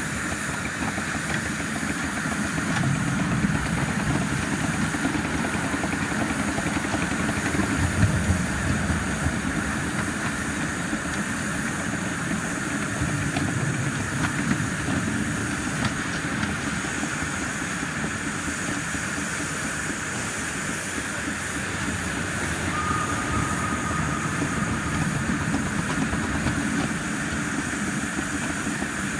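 7¼-inch gauge live-steam model of a D&RGW Baldwin C-19 locomotive running, a steady hiss of steam over the rumble of its wheels on the rails, heard from aboard the train.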